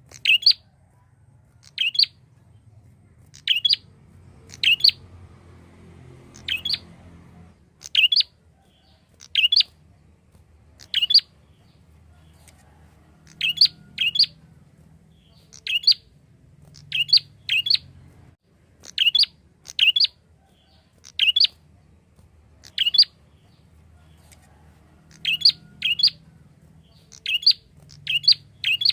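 Prinia (prenjak) calling: short, sharp chirps, mostly in quick pairs, repeated every second or two.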